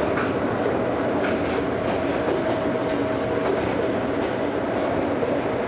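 Ohmi Railway electric train running along single track, heard from inside the car: a steady rumble of wheels on rail with a few clicks as the wheels pass rail joints, and a faint steady whine for a few seconds in the middle.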